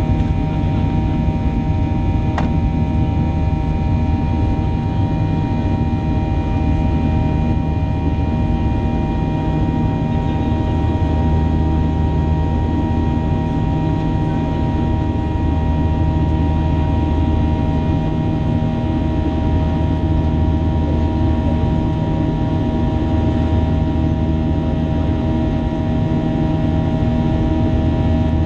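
Boeing 737's CFM56 turbofan engines heard from inside the cabin: a steady, loud drone with several constant whining tones over a deep rumble. There is a single brief click about two seconds in.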